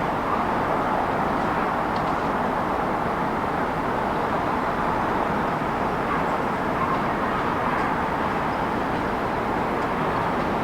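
Steady city traffic noise: an even, continuous wash of vehicle sound with no single event standing out.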